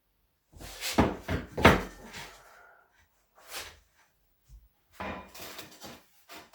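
A series of knocks and clatters: three close together about a second in, a single one past three and a half seconds, and a cluster near the end.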